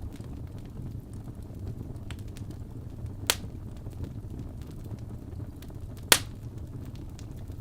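Wood fire burning in a fireplace, a steady low rumble with faint crackles and two loud sharp pops, one a little before halfway and a louder one near the end.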